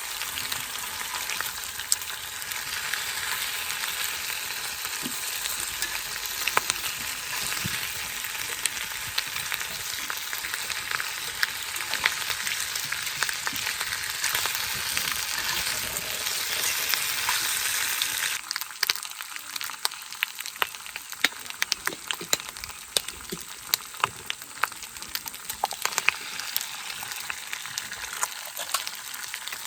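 Steak sizzling in a small cast-iron skillet over a campfire: a dense, steady hiss dotted with spitting pops. About two-thirds of the way through, the hiss drops away suddenly, leaving quieter, scattered sputters and crackles.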